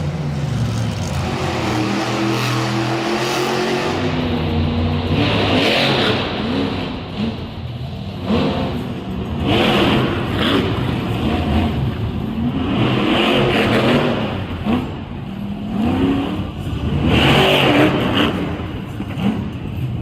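Monster truck engines running loud, revving up and falling back repeatedly.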